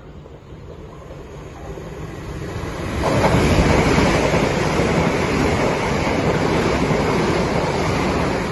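Electric multiple-unit passenger train running along the platform. Its noise builds over the first three seconds as it approaches, then stays loud and steady as the carriages pass close by.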